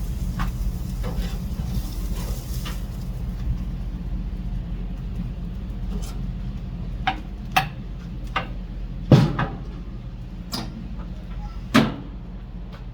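Sharp metal knocks and clanks, about seven of them, the loudest about nine seconds in, from working a grill or smoker, over a steady low rumble. A faint hiss fades out in the first few seconds.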